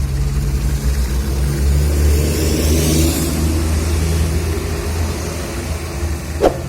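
Heavy diesel engine of road-paving machinery running steadily with a low hum, a brief rush of hiss partway through, and a short knock near the end.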